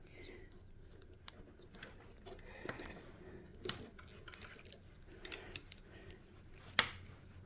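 Faint scattered clicks and rustles of small parts and wire being handled and worked at a workbench, with one sharper click near the end.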